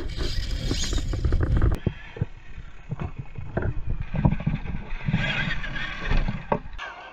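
Tamiya Lunchbox RC monster truck driving over rough ground: a low rumble with many uneven thumps and knocks from the chassis and suspension. The rumble is heaviest in the first two seconds and comes again in patches, then dies down just before the end.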